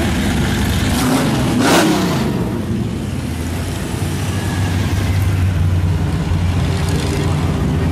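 Car engines running as parade cars drive slowly past; one passes close under two seconds in, loudest there, its engine note dropping in pitch as it goes by, then a low steady engine drone from the next car.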